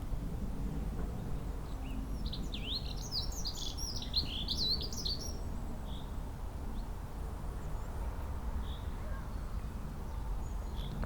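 A songbird sings one quick, tumbling phrase of fast sweeping high notes lasting about three seconds, followed by a few single short chirps. A steady low rumble runs underneath.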